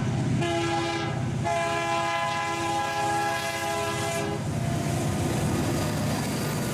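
Locomotive air horn sounding a chord: the end of one blast, a short blast, then a long blast that stops about four seconds in, the short-long close of a grade-crossing signal. After it, the train rolls by with a steady rumble of wheels on rail.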